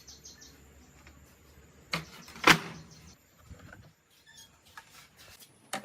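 Two sharp knocks about half a second apart, the second louder and ringing briefly, over a faint low hum, with a few lighter clicks after.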